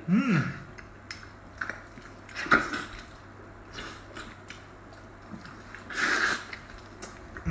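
Wet, sticky biting and chewing of braised pork knuckle skin, in separate mouthfuls, with louder bites near the start, about two and a half seconds in and around six seconds in.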